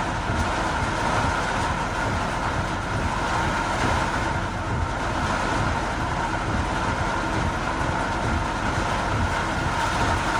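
Steady running noise of a vehicle on a rain-soaked road: a continuous low rumble and hiss of tyres on wet tarmac and heavy rain.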